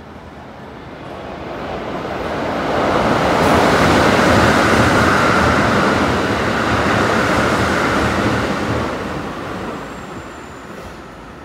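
A train passing close by. Its running noise builds over about three seconds, stays loud for about five, then fades away.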